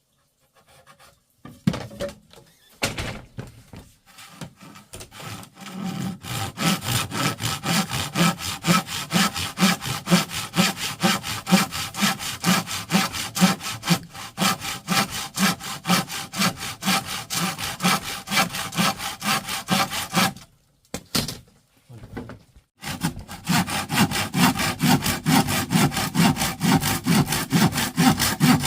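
Hand saw cutting through wood in quick, even back-and-forth strokes. There are a few scattered knocks before it gets going, and it stops briefly about two-thirds of the way through before resuming.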